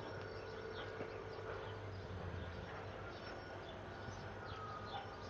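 Faint background sound: a steady low hum with scattered short, high, falling chirps like small birds.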